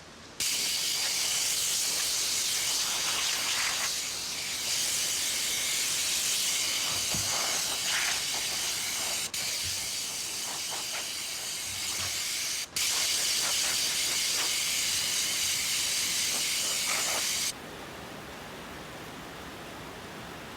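Loud, steady hissing noise of a woodworking operation, in several pieces joined by abrupt cuts, stopping suddenly a few seconds before the end.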